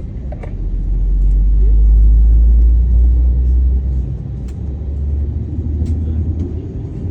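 Jet airliner engines heard from inside the cabin: a deep rumble that swells about a second in, then shifts up to a slightly higher, steady hum about four seconds in.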